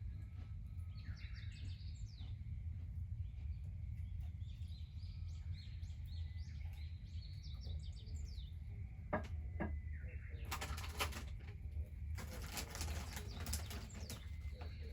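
Small birds chirping in short high phrases over a steady low rumble, followed in the second half by a stretch of dense crackling and rustling noise.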